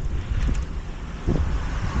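Wind buffeting the microphone of a moving bicycle rider, a low rumble with short gusts.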